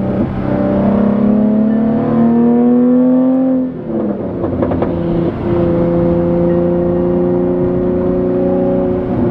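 Jaguar F-Type's supercharged 3.0-litre V6 with the muffler removed, its exhaust rising in pitch under acceleration for about three and a half seconds. It dips briefly, then settles into a steady, loud droning tone at constant speed.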